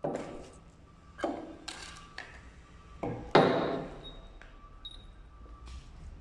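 Metal clanking: about five sharp knocks and scrapes, the loudest a little after three seconds in, each leaving a short metallic ring.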